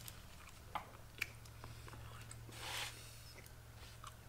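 Quiet mouth sounds of people chewing big bites of a cheeseburger: a couple of sharp little clicks early on and a brief rustle about two and a half seconds in, over a steady low hum.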